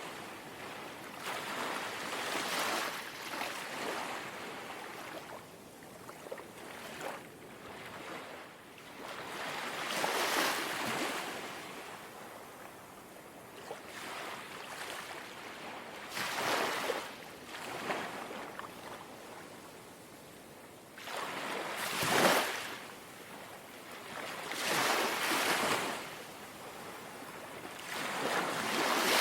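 Gentle sea waves lapping on the shore, each small wash swelling and fading with a hiss, about every three to six seconds.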